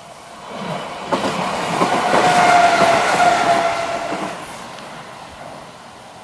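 An Enshu Railway electric train passing over a level crossing. It grows louder as it comes in, its wheels clack over the rail joints, and a steady high tone sounds at its loudest. It fades away after about four seconds.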